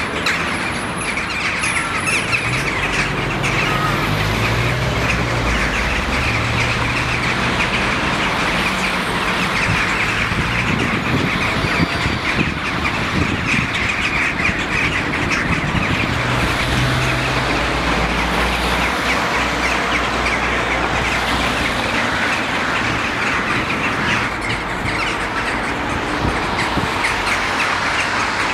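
A huge flock of birds calling all at once in a dense, unbroken chatter of overlapping chirps and squawks, with a low rumble of traffic underneath.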